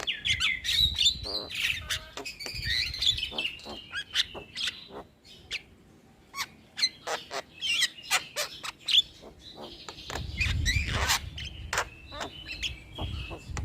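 Javan myna (jalak kebo) calling: a rapid mix of sharp clicks, chatter and short whistled notes, thinning to scattered clicks midway and then picking up again.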